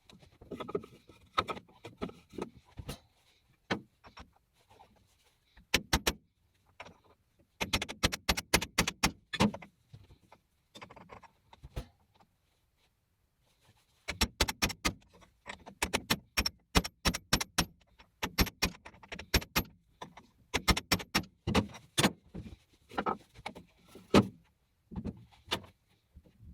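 Irregular runs of sharp metallic clicks and clatter, like small metal parts being handled, with short pauses between the runs.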